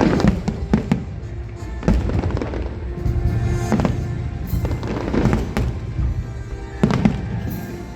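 Fireworks bursting again and again, sharp cracks and booms every second or so, with music playing alongside.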